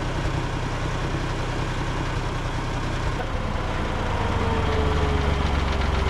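An engine running steadily at idle, then growing louder and heavier about four seconds in, with a faint whine falling slowly in pitch.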